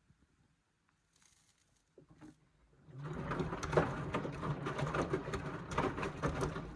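Indesit washing machine drum starting to turn about three seconds in: a steady motor hum under the sloshing and tumbling of water and a wet cotton load, easing off at the end.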